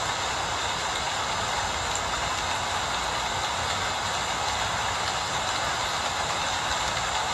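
Steady rain falling, an even hiss that keeps the same level throughout, with no single drops or other events standing out.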